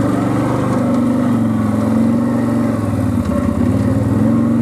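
Quad bike (ATV) engine running under way, its pitch dropping briefly about three seconds in and rising again as the throttle is opened.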